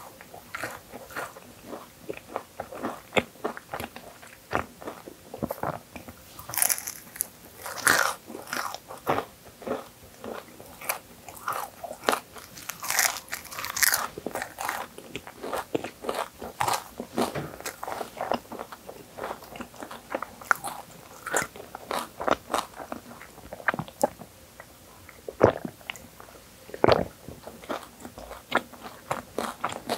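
Chewing an Oreo whipped-cream crepe, with many sharp crunches of crepe and Oreo cookie between the teeth.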